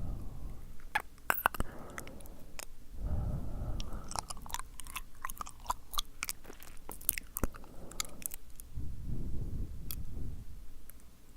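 Close-miked wet mouth sounds: many quick sticky lip and tongue clicks, densest in the middle, with three slow breathy swells in between.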